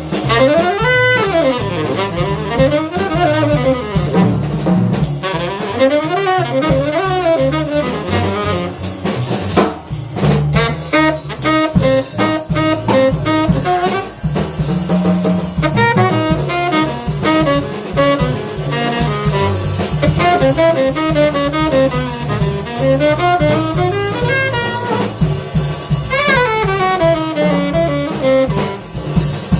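Jazz trio of tenor saxophone, double bass and drum kit playing; the tenor saxophone leads with quick rising and falling runs of notes over the bass and cymbal-driven drums.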